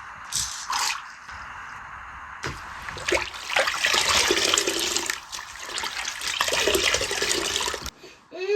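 Water running and splashing, cutting off suddenly near the end.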